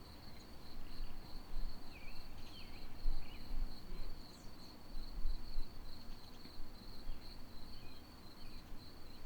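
Crickets trilling steadily and high in the background, with a few faint short chirps in the first half and irregular low rumbles.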